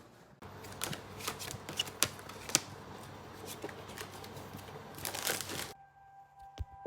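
A deck of playing cards being shuffled and handled: a run of quick papery clicks and flicks that stops abruptly near the end.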